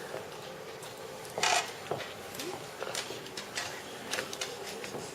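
Scattered light clicks and taps, with a short louder clatter about one and a half seconds in.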